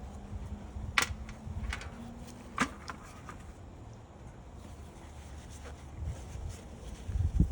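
A few sharp clicks and taps of small tools and parts being handled on a workbench, the loudest about a second in, with a low knock or two near the end.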